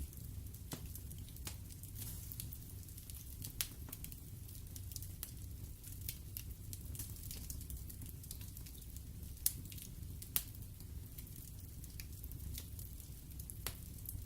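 Wood fire burning in a fireplace: a steady low rumble and soft hiss of the flames, with scattered sharp crackles and pops from the burning logs, two louder pops around the middle.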